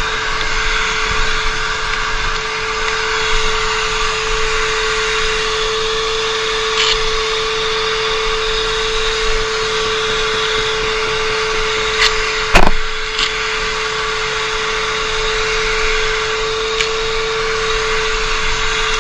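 Yamaha R6 inline-four engine idling steadily with the bike standing still, with one sharp knock about two-thirds of the way through.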